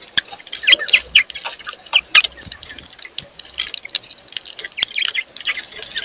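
Birds chirping in quick, overlapping short calls, with scattered sharp ticks among them.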